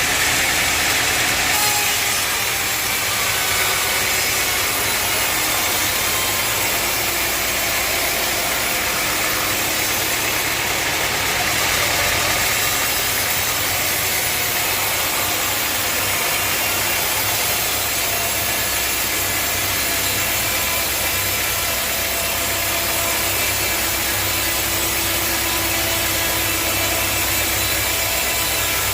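Sawmill saw cutting steadily through a log, with the mill's engine running underneath. The sound holds even throughout, with no pauses.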